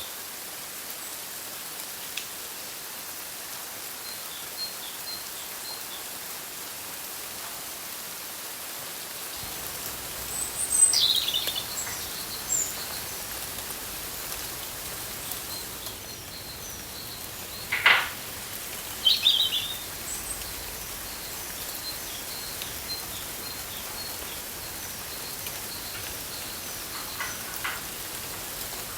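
Outdoor ambience: birds chirping and calling over a steady hiss, with a few louder calls about a third and two thirds of the way through.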